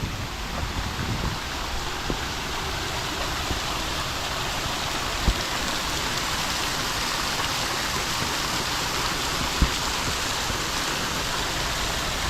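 Creek water rushing and babbling steadily over rocks at the top of a small waterfall. Two brief low thumps come through, one about five seconds in and one near the ten-second mark.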